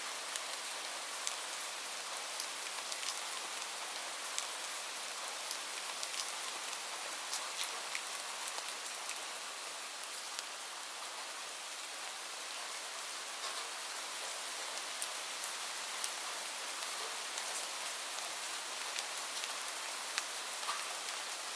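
Steady rain falling on a surface, an even hiss with many small drops tapping sharply through it.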